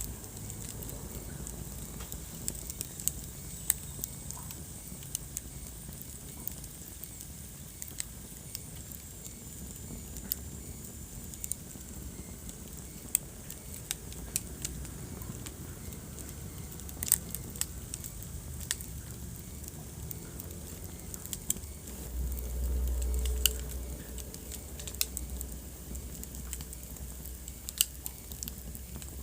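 Wood fire burning in a fireplace: a steady low rumble of flames with sharp crackles and pops at irregular intervals, and a louder low rumble swelling for a couple of seconds about three-quarters of the way through.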